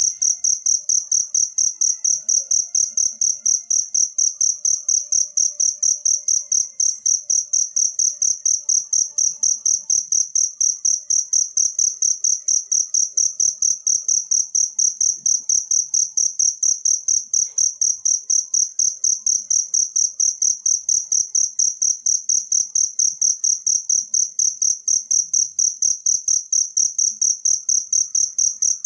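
A cricket chirping loudly in a fast, even, high-pitched rhythm of about four chirps a second.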